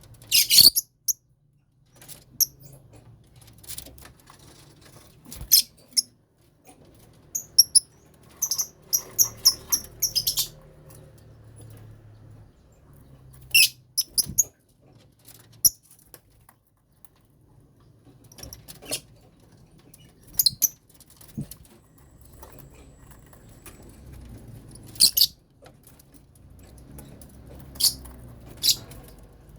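Lovebirds in a colony cage giving short, shrill chirps at irregular intervals, with a quick run of calls about eight seconds in.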